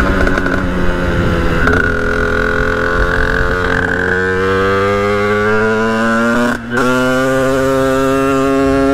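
The two-stroke engine of a Sherco 50cc dirt bike under way. It holds a steady pitch for a few seconds, then revs rising as the bike accelerates. It cuts out briefly about two-thirds of the way through, as for a gear change, then climbs again.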